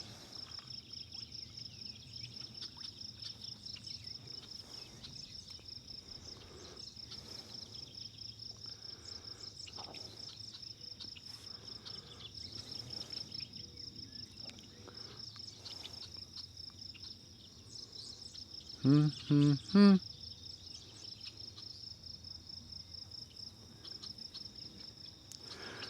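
Insects chirping steadily in a high-pitched pulsing rhythm, about three pulses a second. Around two-thirds of the way through there is a short voiced sound from a man, in three quick parts.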